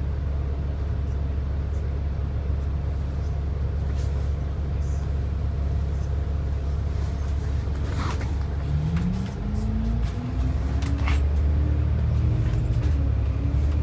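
Bus running heard from inside the cabin: a steady low engine and road rumble, then a little under nine seconds in a whine that climbs steadily in pitch as the bus speeds up. A couple of short clicks or rattles come near the middle.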